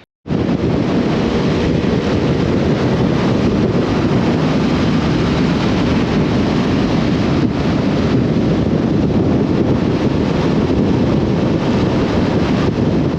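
Steady wind noise on the microphone from a motorcycle riding at road speed. It starts abruptly just after the cut.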